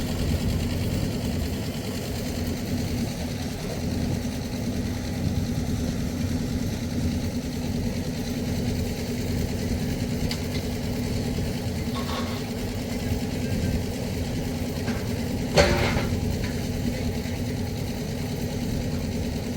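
An engine running steadily at an even speed, with a single sharp knock about fifteen and a half seconds in.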